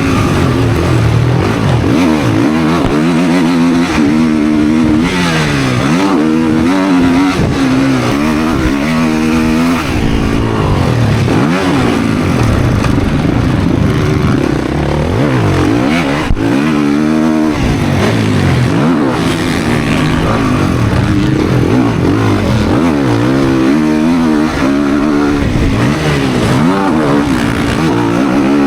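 Motocross dirt bike engine at full race pace, revving up hard and dropping back again and again as it climbs through the gears and backs off.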